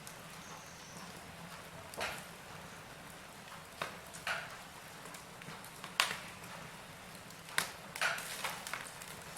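Wood fire crackling in a fireplace: a soft steady hiss with scattered sharp pops, coming thicker near the end.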